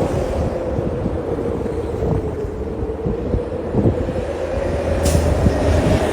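A large vehicle running: a steady low rumble with a drawn-out tone that sags slightly and rises again, and a brief hiss about five seconds in.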